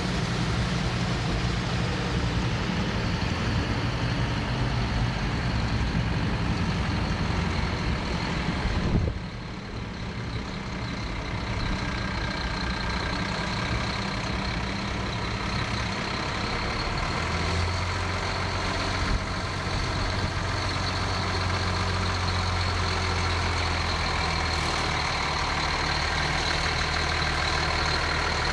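Heavy fire-truck diesel engines running at low speed, a steady low drone. The sound drops abruptly about nine seconds in, and a deeper engine drone sets in about halfway through.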